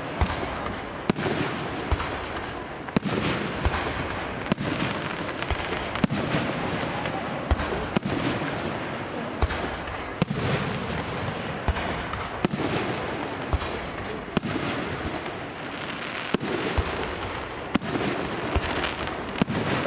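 Aerial fireworks going off in a steady series, a sharp bang every one and a half to two seconds, over a continuous noisy background.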